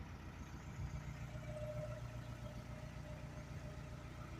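Narrowboat's diesel engine running steadily, a low pulsing drone.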